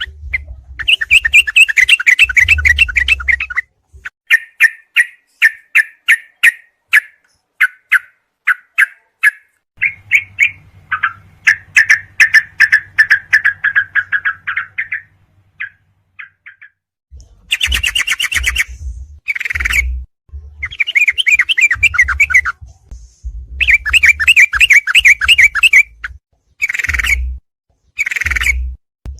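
Recorded song of yellow-vented bulbuls (cucak trucuk): bursts of rapid, rolling chirps and trills, separated by short pauses, used as tutor song for training cage birds.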